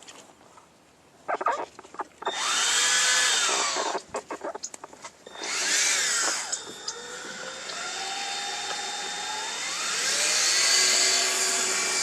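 Electric drill motor whirring while it drives oil into the engine to prime it. It gives two short bursts that each spin up and wind down, with clicks and clatter between them, then runs on continuously, its pitch climbing in steps.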